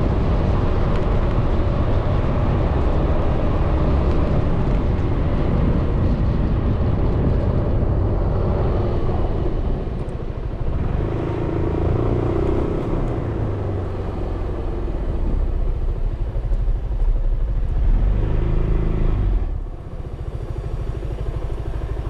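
Suzuki Burgman 400 single-cylinder scooter engine running under way, with heavy wind and road rumble on the helmet-mounted camera microphone. The engine pitch rises and falls with the throttle, and the sound drops off sharply near the end as the scooter eases off.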